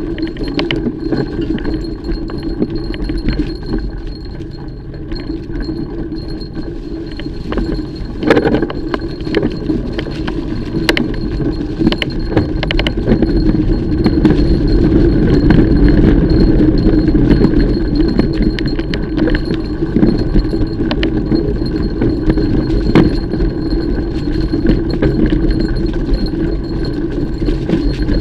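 Mountain bike being ridden on a trail: tyres rolling over dirt, with the chain and bike rattling and clicking over bumps. The rolling noise grows louder about halfway through.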